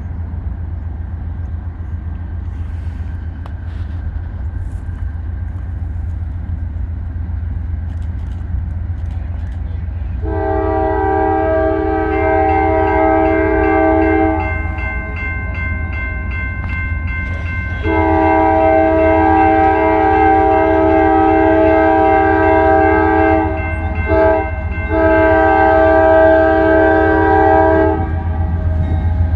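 Diesel locomotive rumbling steadily, then its multi-note air horn sounds about ten seconds in: a long blast, a second long blast, a short one and a final long one. This is the long-long-short-long signal for a grade crossing. The horn is on Norfolk Southern train 191, led by a GE AC44C6M.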